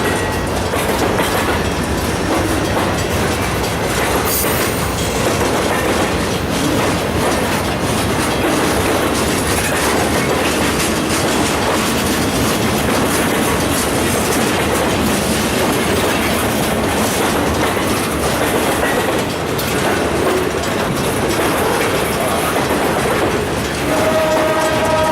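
Freight train rolling past with a steady clatter of wheels on the rails. About a second before the end, a locomotive air horn starts to sound.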